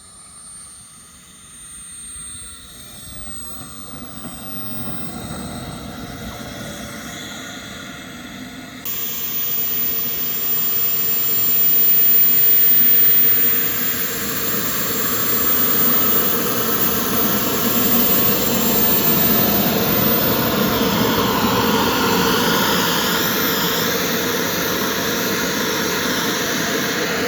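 Turbine engine of a radio-controlled model jet running, with a thin high whine over a rushing roar. About nine seconds in it turns abruptly louder and stays loud, swelling and easing slightly.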